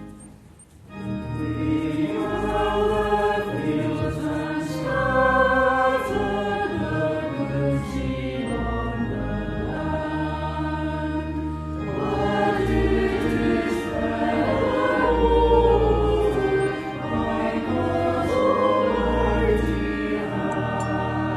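A hymn sung by many voices with pipe organ accompaniment, coming in about a second in after a brief lull.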